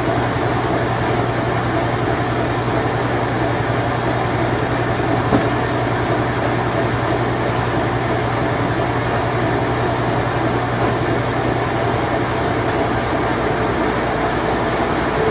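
Whirlpool Imperial Clean Touch washing machine running its spin cycle: a steady mechanical hum and whir. A low hum drops out near the end.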